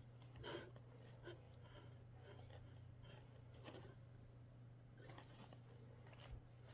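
Near silence with a few faint, brief rustles of a soft muslin blanket being folded and handled, the most noticeable about half a second in.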